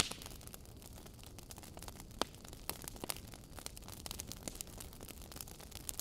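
Wood fire in a fireplace crackling, with irregular sharp pops and snaps over a low steady rumble of burning logs; the loudest pop comes right at the start, another just after two seconds in.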